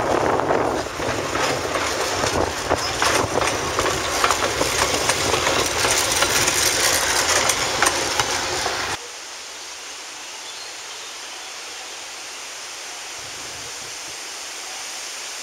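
Narrow-gauge train cars rolling past close by, wheels clattering and clicking over the rails. The sound cuts off suddenly about nine seconds in, leaving much quieter steady wind noise.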